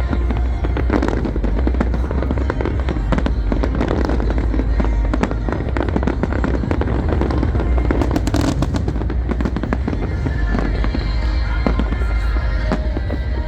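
Fireworks show: a rapid, continuous barrage of aerial firework bursts and bangs, with loud music with a heavy bass underneath.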